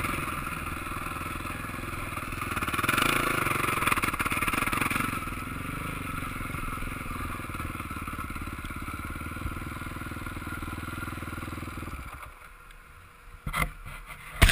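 Motocross bike engine running, swelling louder for a couple of seconds and then holding steady before cutting away near the end, followed by a few short knocks.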